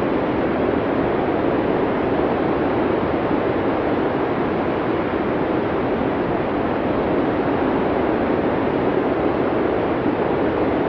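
Steady blizzard wind: an even, dull rushing noise with no gusts, breaks or distinct events.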